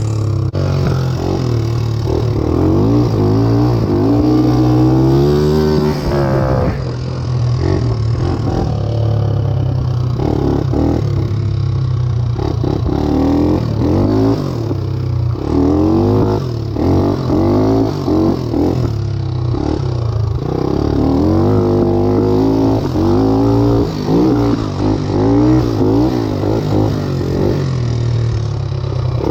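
Satoh S650G compact tractor's gasoline engine running under load while being driven. Its speed rises and falls again and again, with a clatter of the machine underneath.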